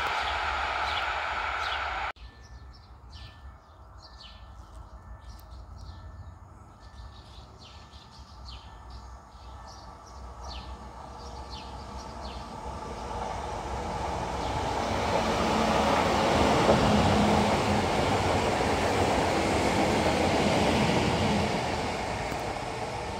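A receding locomotive-hauled passenger train, its wheels rumbling on the rails, cut off abruptly about two seconds in. Birds chirp over faint background, then a regional electric multiple unit approaches and passes: the wheel-and-rail rumble with a low motor hum swells to its loudest about two-thirds of the way through and eases slightly near the end.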